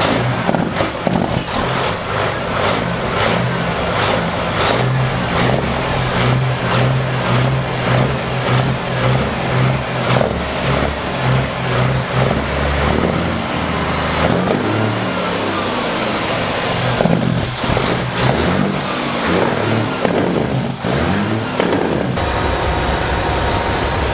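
Semi-truck diesel engines running, with revving whose pitch rises and falls over the latter half.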